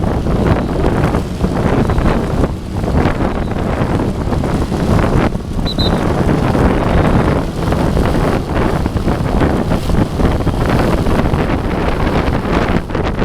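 Loud, gusty wind buffeting the microphone over a deep, steady rumble.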